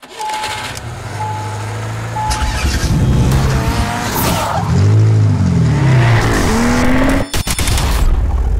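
Car sound effects in a channel logo intro: three short beeps about a second apart, then a car engine revving up and down several times with tyre squeal. The sound breaks off briefly with a few sharp clicks about seven seconds in, then the engine noise resumes.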